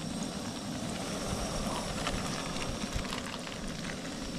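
Hush puppy batter frying in hot grease in a small frying pan: a steady sizzle with many small scattered pops and crackles, over a low rumble.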